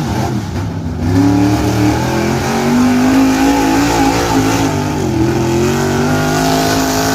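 Gasoline pickup truck engine running at high revs under heavy load while pulling a weight-transfer sled, its pitch wavering up and down.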